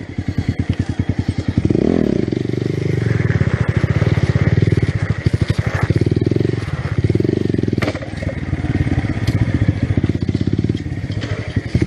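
Motorcycle engine running with a rapid, even pulsing, revving up in several surges.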